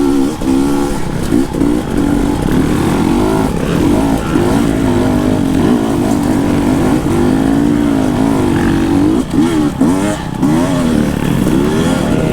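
Two-stroke dirt bike engine, a Husqvarna TE 250i, revving up and down as the throttle is worked on and off along the trail, with quick sharp blips near the start and around nine to ten seconds in.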